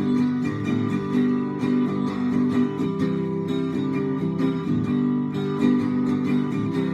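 Acoustic guitar strumming chords in a steady rhythm, an instrumental break in a pop song with no singing.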